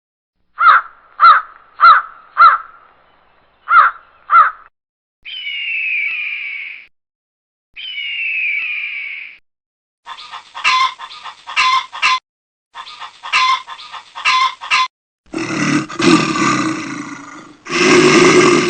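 A series of different animal and bird calls, one after another. First come six short, sharp caws, four and then two. Two longer, higher calls with a falling pitch follow, then rapid runs of short calls, and near the end the loudest part: two long, rough, roar-like calls.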